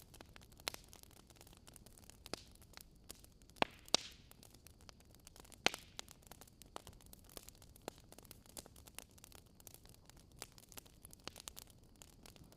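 Wood fire crackling: irregular sharp pops and snaps over a soft, steady hiss, with a few louder pops a little before the middle.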